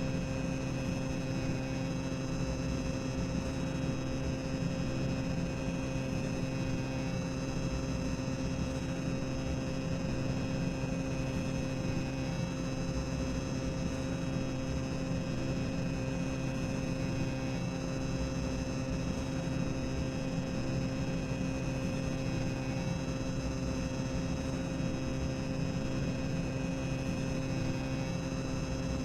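Boiler-room ambience sound effect: a steady machinery drone and hum with several fixed tones that holds unchanged throughout.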